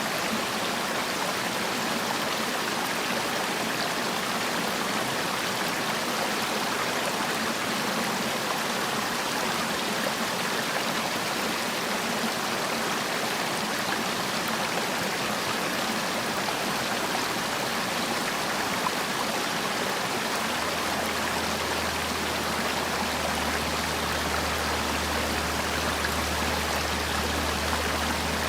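Mountain stream rushing steadily over rocks, an even, unbroken water noise. A low steady hum comes in about twenty seconds in.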